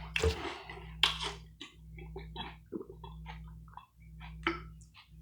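Close-miked chewing of a mouthful of sandwich: irregular wet smacks and mouth clicks, with a faint steady low hum underneath.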